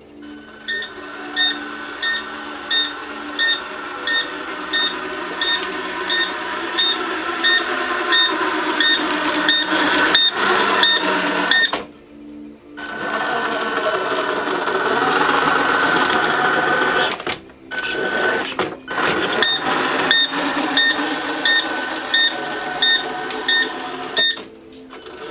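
Short electronic beep repeating about one and a half times a second over a steady running noise, stopping for a while midway and starting again.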